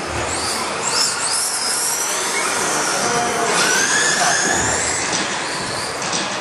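Radio-controlled stadium trucks racing: high motor whines glide up and down in pitch over a steady rush of noise from the track.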